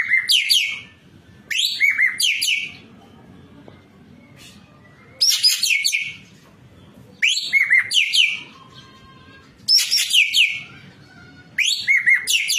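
Ekek keling (racket-tailed treepie) calling in about six short, loud bursts, each a quick run of harsh notes sweeping downward in pitch, with pauses of a second or so between them.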